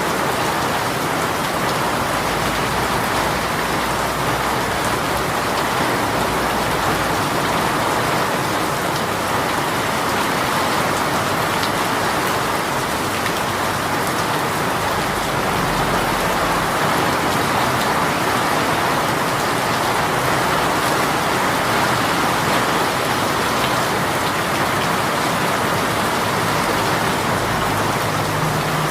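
Heavy shower rain falling steadily on a surface, an even, unbroken hiss of many drops.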